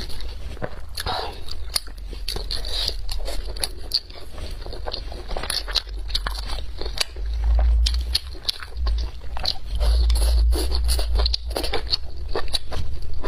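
Close-miked eating sounds: biting and chewing with many quick wet, crackly clicks and crunches. At times a low rumble swells underneath.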